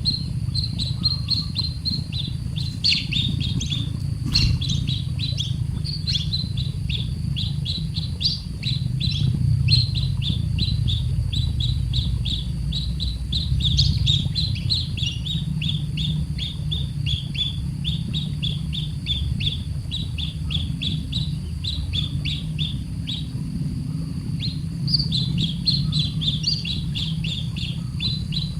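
A baby bird giving rapid, high, short begging chirps, several a second without let-up, with a steady low rumble underneath.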